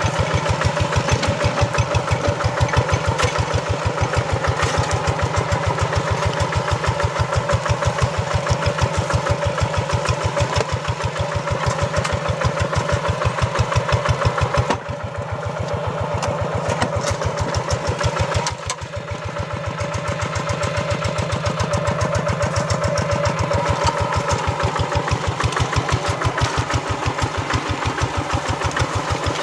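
Single-cylinder diesel engine of a two-wheel hand tractor running steadily with an even, rapid chugging beat, while ploughing a field. The level drops briefly about halfway through and then picks up again.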